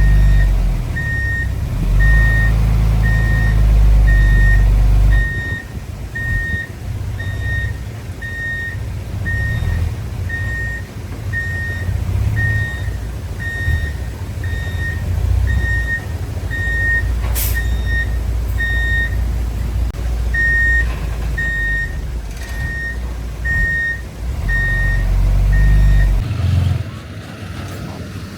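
Heavy construction machine's reversing alarm beeping evenly, about one and a half beeps a second, over the low rumble of a diesel engine that grows louder for a few seconds twice. The beeping stops shortly before the end.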